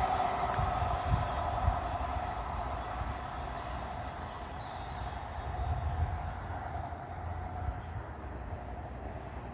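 Class 158 diesel multiple unit train running on the rails, with a low rumble and a steady whine, fading away as it moves off. A couple of knocks come in the first two seconds.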